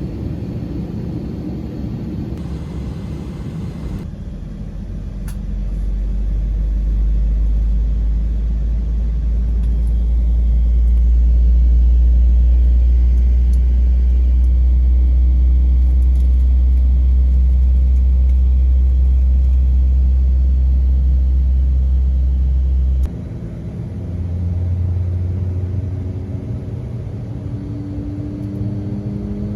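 Airbus A321 cabin noise during pushback and taxi: a deep, loud rumble builds over the first several seconds, holds steady, and cuts off suddenly about 23 seconds in. It is followed by quieter machine tones, some rising slightly near the end.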